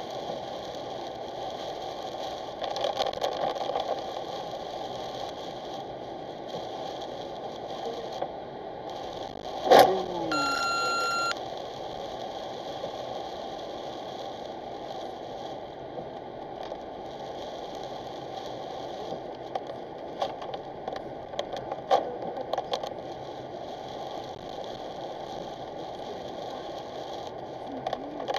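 Car driving on a rain-soaked road, heard from inside the cabin: steady tyre and rain noise. About ten seconds in a sudden loud burst of spray hits the car, and an electronic beep follows at once, lasting just over a second.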